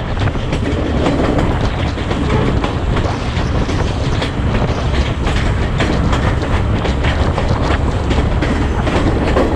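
Passenger train running along the track: a steady rumble with the wheels clattering over the rail joints.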